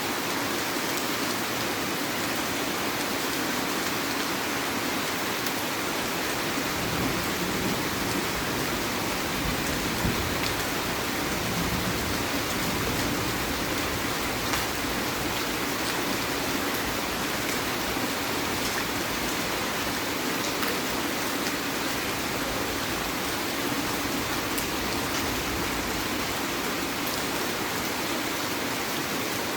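Heavy rain falling steadily, a dense even hiss of drops on surfaces with occasional single drops ticking.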